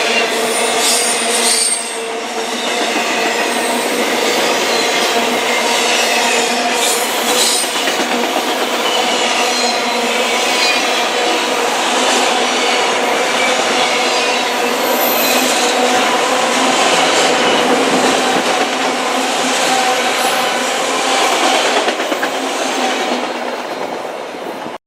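Freight train of autorack cars rolling past, steel wheels squealing steadily on the rails with clickety-clack over the rail joints. The sound dips briefly about two seconds in and fades near the end.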